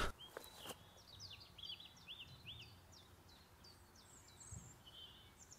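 Faint birdsong: a quick series of short, high chirping notes over a quiet outdoor background, thinning out after about three and a half seconds.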